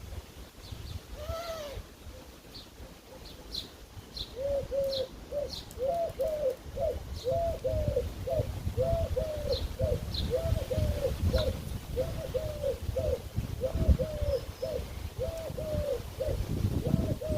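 A pigeon cooing over and over in steady, quick phrases of short arched notes, starting about four seconds in. Sparrows chirp briefly now and then, mostly in the first half.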